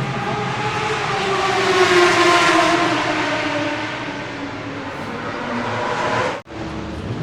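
Two-stroke racing motorcycle engine running, its pitch rising and then falling away. The sound breaks off for a moment near the end before engine noise resumes.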